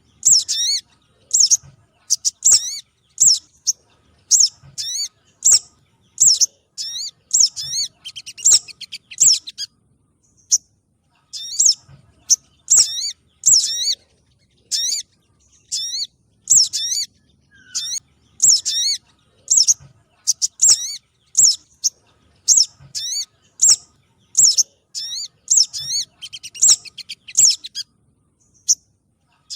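Lure recording of spiderhunter calls, the 'sogon trotol' used to attract wild spiderhunters: short, sharp high-pitched chirps repeated about once or twice a second, with a short pause about ten seconds in.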